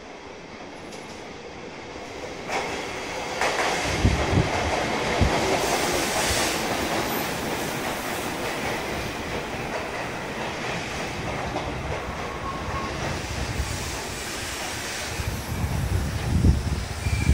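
Sotetsu electric commuter train pulling into the station. It grows louder over the first few seconds as it draws alongside, then runs past steadily with wheel-on-rail noise, and there is a cluster of low thumps near the end.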